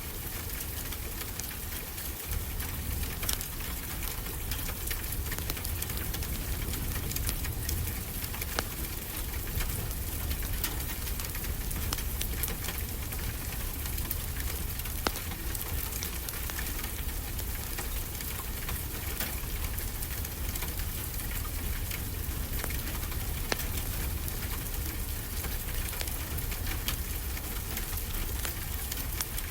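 Steady rain falling, with the soft crackle and pops of a wood fire.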